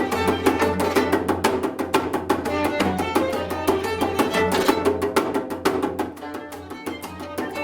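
Korean contemporary improvised music: plucked gayageum (Korean zither) notes over fast, dense percussion strokes, easing slightly in loudness about six seconds in.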